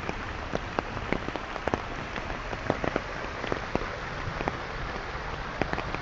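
Steady heavy rain falling, with many sharp, irregular drop hits landing close to the microphone over the steady hiss.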